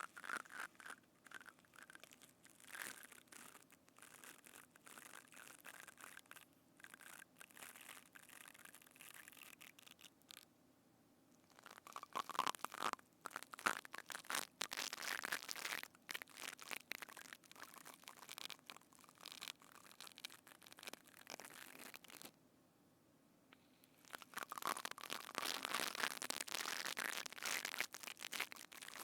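Crunching, crackling ASMR trigger sounds right at the binaural microphone, in three spells separated by two short pauses, the last spell the loudest.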